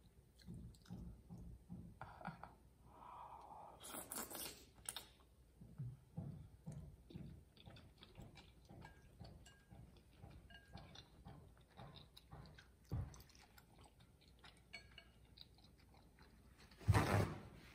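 Close-miked eating: a mouth chewing soft, chewy Korean rice cakes and glass noodles, with small wet clicks and smacks. There are two louder noisy sounds, one about four seconds in and a short one near the end.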